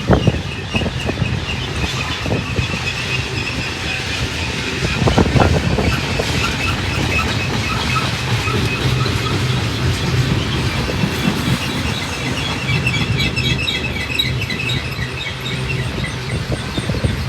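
Freight cars of a heavy Union Pacific manifest train rolling past with steady wheel rumble and clickety-clack over the rails, and a few sharp knocks, the loudest about five seconds in. Repeating high-pitched wheel squeal rides over the rumble.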